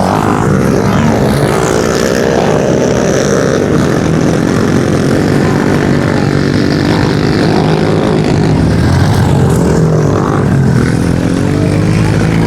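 Small 110cc pit bike engines racing, their pitch rising and falling as the riders open and close the throttle.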